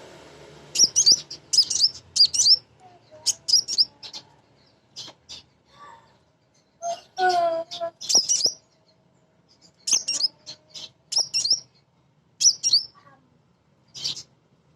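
Female kolibri ninja sunbird calling for a male: quick, sharp, high chirps in short clusters, repeated with brief pauses. About seven seconds in there is a lower, rougher call.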